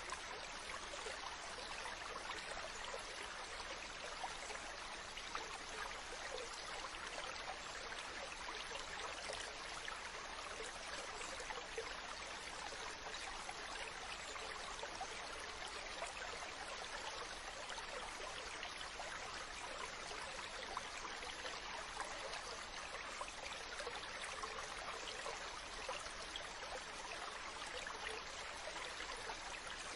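Mountain stream running: a steady rush of water over rocks, with fine splashing and trickling detail.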